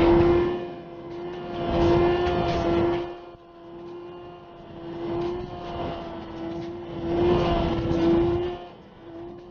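Motorcycle engine running at steady revs while riding, with wind noise on the microphone that swells and fades every couple of seconds.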